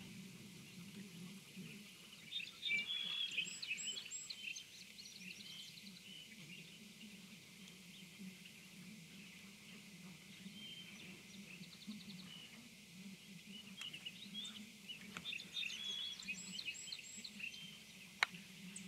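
A bird singing in two bouts of quick, varied high chirps, about two seconds in and again about fourteen seconds in, over a faint steady low hum. A single sharp click near the end.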